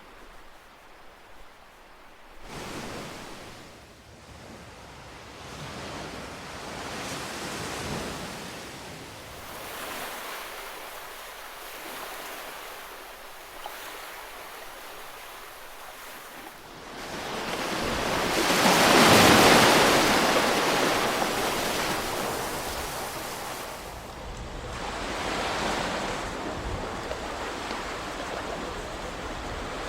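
Ocean waves breaking and washing in, in slow swells of surf, after a quieter first couple of seconds. The largest wave crests about two-thirds of the way through.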